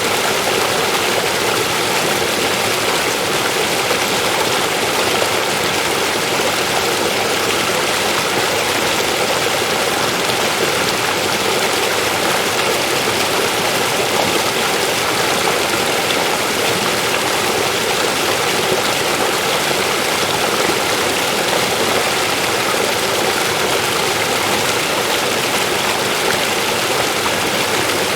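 River water rushing steadily over rocks, an unbroken even rush.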